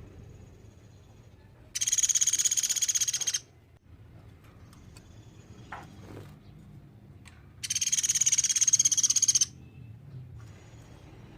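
A platuk beras woodpecker giving two loud, rapid high-pitched trills, each lasting under two seconds and about six seconds apart, with fainter high notes between them.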